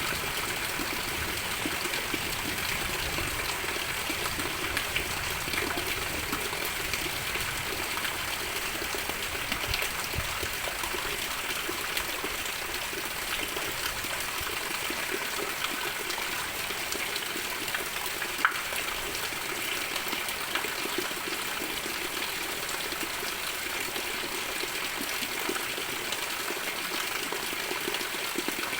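Heavy rain falling steadily in a dense, even hiss with splashing and running water. One sharp tick stands out about two-thirds of the way through.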